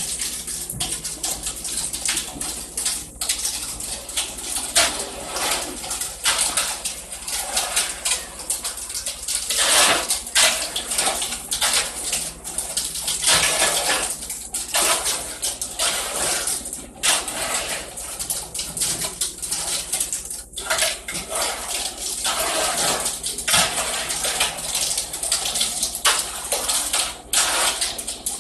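Wet concrete being worked and levelled in a freshly filled foundation form: irregular scraping and slopping strokes, with a faint low hum under them.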